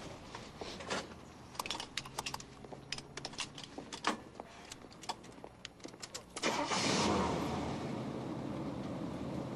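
Keys jangling and clicking, then about six and a half seconds in a car engine starts and runs loudly.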